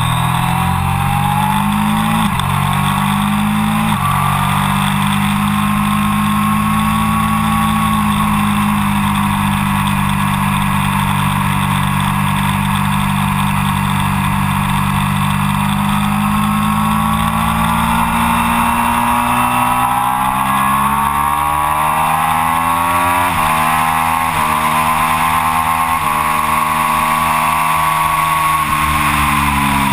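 Triumph Daytona 675 inline-three engine with an Arrow exhaust, heard onboard at full throttle on a racetrack, with wind rush. Revs climb and drop sharply with two upshifts in the first few seconds. They then hold fairly steady through a long corner, climb again through three more upshifts, and fall away near the end.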